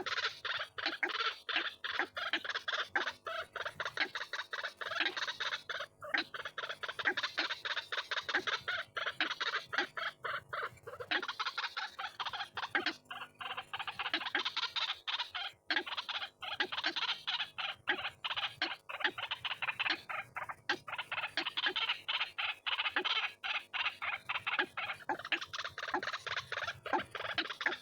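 White-breasted waterhen (ruak-ruak) calling without a break: a rapid, unbroken stream of harsh, croaking calls.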